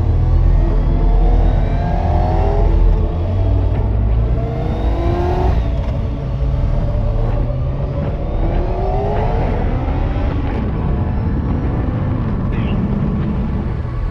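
Kawasaki ZX-9R inline-four sportbike engine accelerating hard, its pitch climbing and falling back several times as it runs up through the gears, over a steady low rumble of wind.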